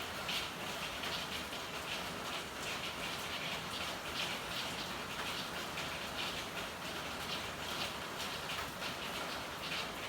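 Steady rain with a dense, irregular patter of drops.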